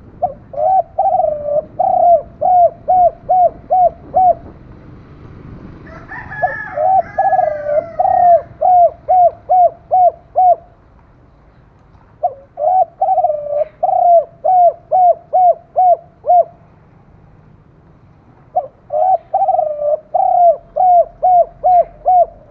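Spotted dove cooing: four bouts of rapid, evenly repeated coos, each bout lasting about four seconds with short pauses between them.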